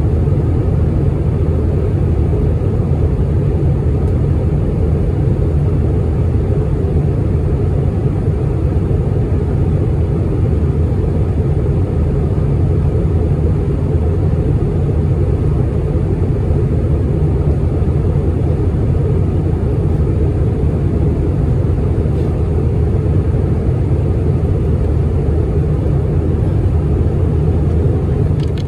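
Airbus A319 cabin noise in flight: a steady, deep rumble of engines and airflow. It cuts off suddenly at the very end.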